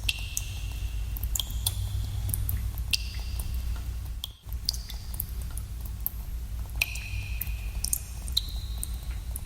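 Water drops falling into pools in a cave, irregular plinks with short ringing tails, over a steady low rumble. The sound briefly cuts out about four and a half seconds in.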